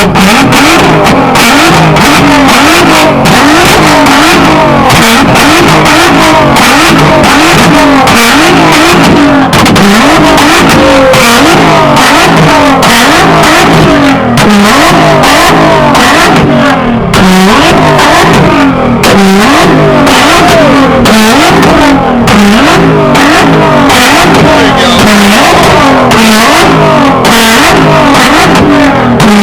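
A tuned car engine revved hard over and over through a loud exhaust, its pitch climbing and dropping about once a second, with constant sharp popping and crackling from the exhaust as it spits flames.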